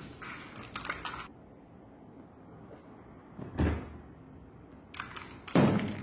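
A few seconds of rustling and scraping, then a dull thump about halfway through. Near the end comes another short rustle and a louder thump.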